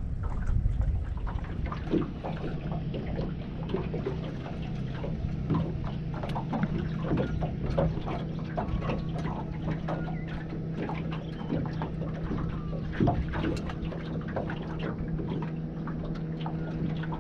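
A steady low motor hum that sets in about two seconds in, with scattered short clicks and knocks over it.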